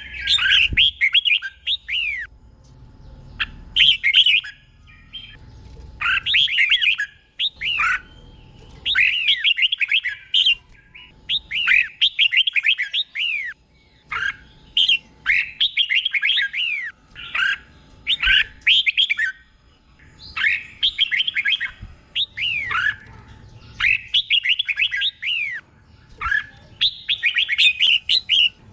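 Red-whiskered bulbul singing: short phrases of quick, falling whistled notes, about one phrase every two seconds, with the phrases often doubled.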